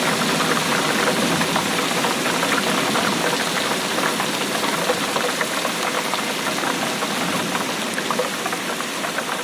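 Steady rainfall with a dense, continuous spatter of drops striking a surface.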